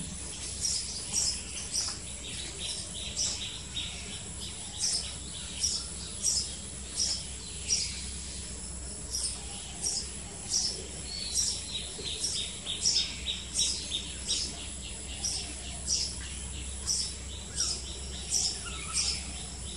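Small bird chirping over and over, short high chirps about one or two a second, with a faster, fainter trill running underneath.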